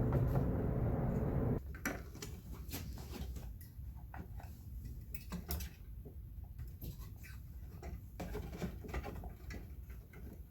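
Homemade microwave-oven-transformer spot welder humming loudly, then cutting off abruptly about a second and a half in. Scattered light clicks and taps follow as the wired metal pieces are handled.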